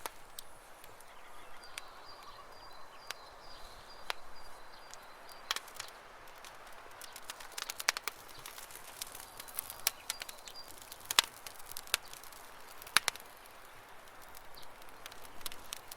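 Campfire crackling with irregular sharp pops, two of them louder in the second half, over a faint hiss. Small birds chirp in the background, with a rapid high trill a few seconds in.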